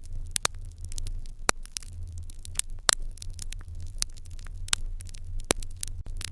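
Open hearth fire crackling, with irregular sharp pops about twice a second over a steady low rumble.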